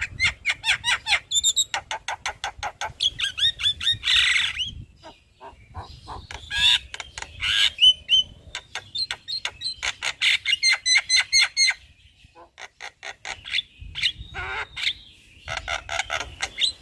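Javan myna (jalak kebo) singing: a fast, chattering run of chirps, whistles and harsh squawks, in long bursts broken by two short pauses.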